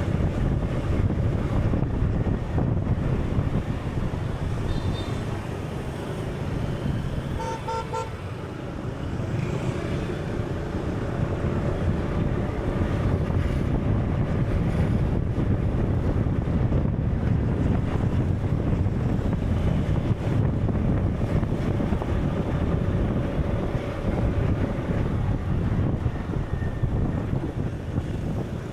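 Steady low rumbling noise, with a faint steady hum and a few short pitched beeps about eight seconds in.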